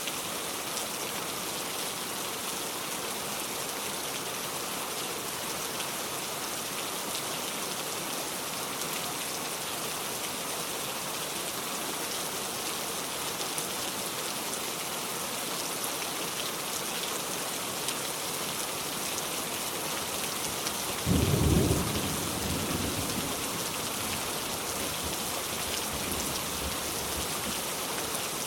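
Steady, heavy-sounding rain falling, with a sudden rumble of thunder about three quarters of the way through that dies away over a couple of seconds; the thunder is the loudest sound.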